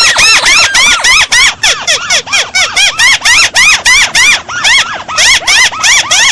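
Lure recording of a crake's (tikusan) call: a rapid, unbroken series of arched, squeaky notes, each rising and falling in pitch, about four to five a second.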